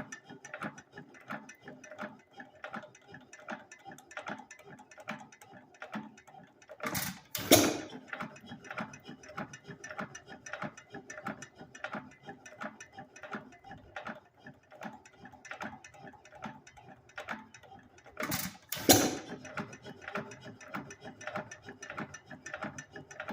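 3 1/2 hp Associated hit-and-miss engine coasting with a steady rapid mechanical clicking, firing twice, about seven and about nineteen seconds in; each firing is a short loud burst of a couple of strokes. The long coasting spells between firings show it running under no load, its governor holding the exhaust open.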